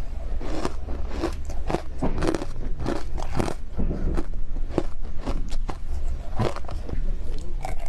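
Close-miked bites into ice: a quick series of sharp crunches and crackles, several a second, as the ice cracks between the teeth.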